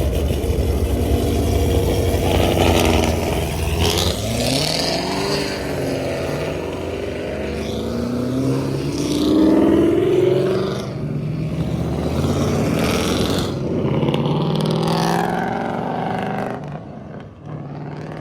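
Performance car engines accelerating hard at full throttle, with the engine pitch sweeping up and dropping back several times as they shift and pass. A deep rumble fills the first few seconds, and the sound fades near the end.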